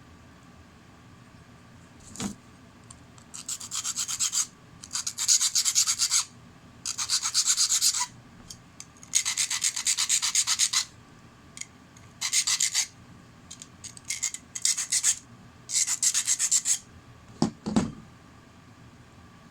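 Rasping, rubbing strokes on a hard surface, done by hand in about seven runs of rapid strokes lasting a second or so each. There is a knock about two seconds in and a couple of thumps near the end.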